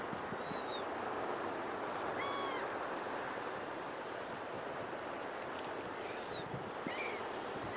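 Seagulls calling in short, high, falling cries a few times over the steady wash of surf, with one louder, longer cry about two seconds in.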